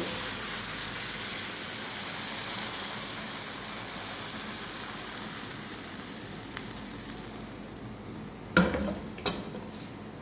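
Chicken hearts sizzling in oil and sauce in a nonstick frying pan, the steady sizzle slowly fading as the pan is tipped and they slide onto a plate. Near the end come a few loud knocks as the pan is set back on the stove.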